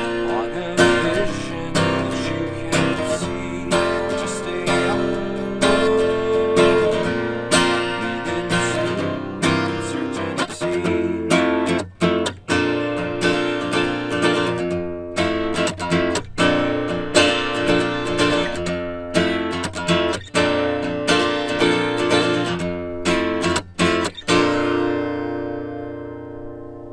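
Acoustic guitar strummed in a steady rhythm, the last chord left ringing and fading away near the end.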